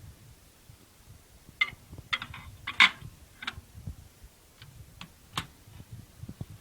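A run of sharp clicks and knocks, about eight of them and loudest around the middle, over soft low thumps.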